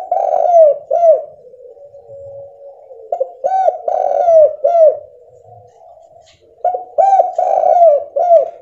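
Spotted dove (tekukur) cooing: three phrases, each a quick run of arched notes, coming about every three and a half seconds with softer, lower cooing between them. It is a clear call used as a lure to set other doves calling.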